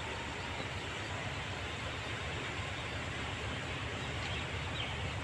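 Distant approaching diesel train: a steady low rumble and hiss that grows slightly louder, mixed with wind buffeting the microphone. A few faint bird chirps near the end.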